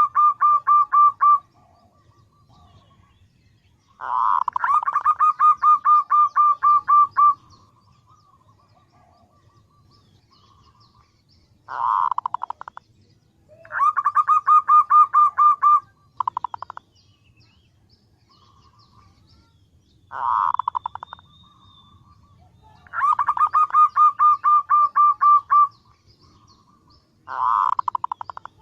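Female zebra dove calling: bouts of rapid, pulsed cooing, each lasting one to three seconds and repeated every few seconds, the kind of call used to lure males.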